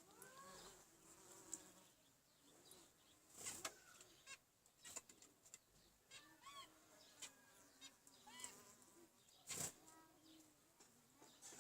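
Zebra finches giving short chirping calls on and off, with a few brief flutters or rustles, the loudest about ten seconds in.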